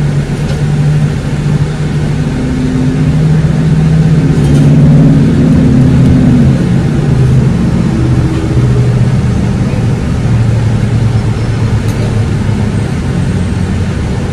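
Car engine running low and steady, heard from inside the cabin, its low hum shifting a little in pitch a few times.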